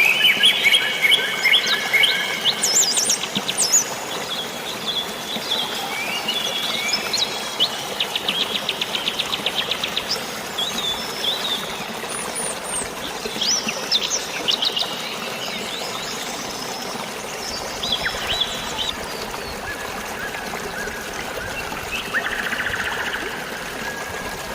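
Several songbirds chirping and whistling, with a fast trill about eight seconds in, over a steady hiss of running water and rain. The calls are busiest in the first half and thin out later.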